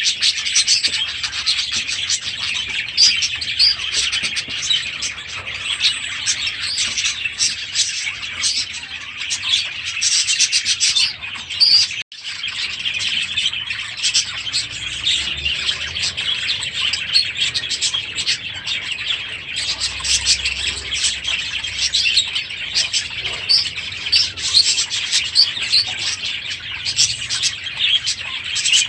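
A flock of aviary budgerigars chirping and chattering continuously. The chatter cuts out for an instant about twelve seconds in, then carries on.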